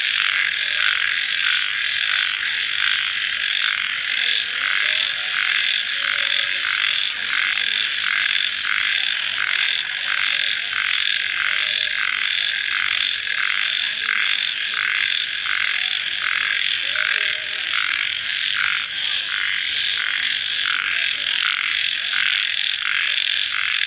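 Dense night-time chorus of calling animals after rain, a high, shrill, even pulsing that goes on without a break.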